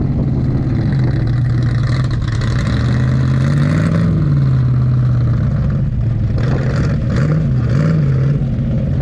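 A car engine running with a steady low note as a car drives out. It is revved up briefly about four seconds in and with two quick blips near the end.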